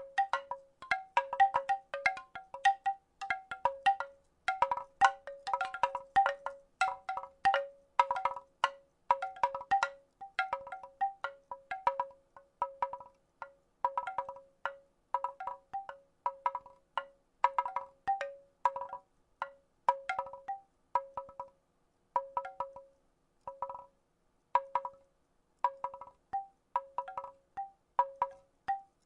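Wooden rattle being shaken in irregular bursts, its wooden pieces clacking together with short, pitched, hollow knocks a few times a second, with brief pauses now and then.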